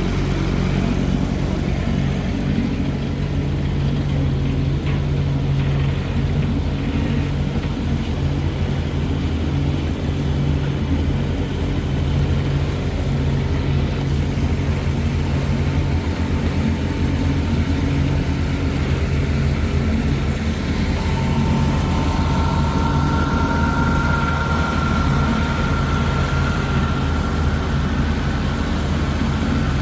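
Johnson 20 hp two-stroke outboard motor running steadily at cruising speed. A faint higher whine joins about two-thirds of the way through.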